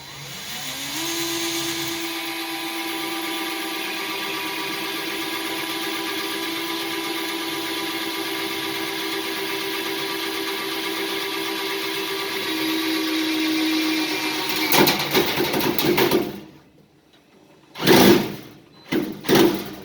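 Electric drill spinning up with a rising whine and running steadily, its pitch dropping as the bit comes under load. Then loud, uneven grinding and crackling, a brief stop, and a few short bursts of drilling near the end.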